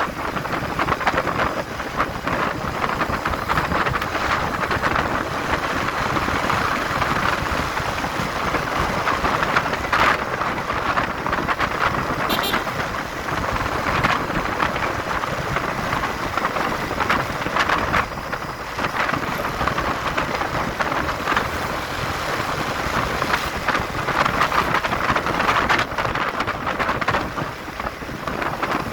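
Wind rushing steadily over the microphone of a moving motorcycle, with road and engine noise underneath and a few brief ticks.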